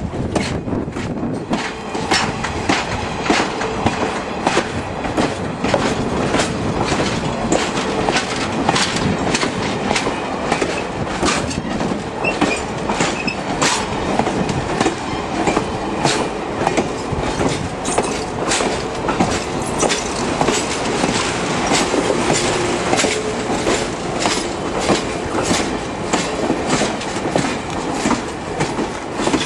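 Steam excursion train rolling past, its wheels clicking irregularly over the rail joints above a steady rumble.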